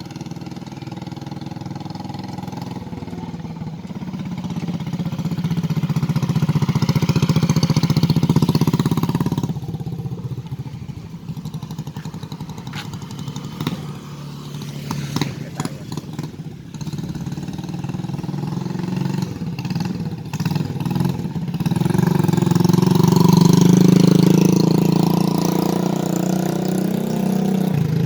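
Honda TMX 155 motorcycle's single-cylinder engine running, growing louder twice as it is given throttle: first about five to nine seconds in, then again over the last several seconds, easing back in between.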